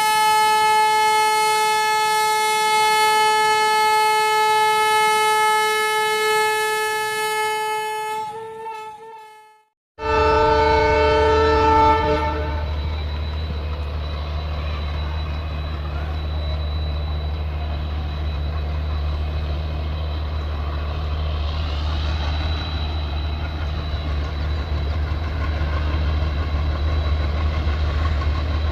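A long, steady train horn sounds for about nine seconds and fades away. After a short break, another horn blast of about two seconds comes over the low running of the WDM-3A diesel locomotives, whose engines then keep running steadily.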